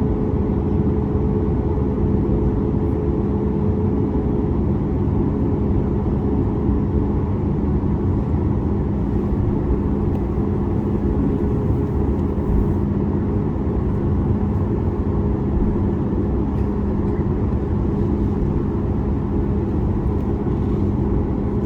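Boeing 737 MAX 8's CFM LEAP-1B engines at takeoff power during the takeoff roll, heard from inside the cabin beside the wing: a loud, steady rumble and rush with a constant hum. A higher hum fades a few seconds in.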